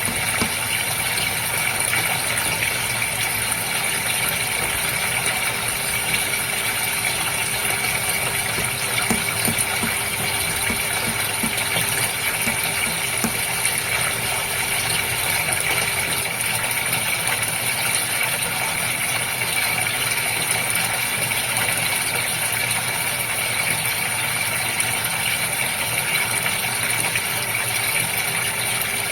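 Steady running and bubbling water in a goldfish aquarium, with a constant mechanical hum under it.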